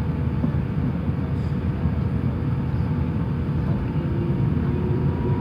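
Cabin noise of an Airbus A350-900 with its Rolls-Royce Trent XWB engines running: a steady low rumble with a faint steady hum over it.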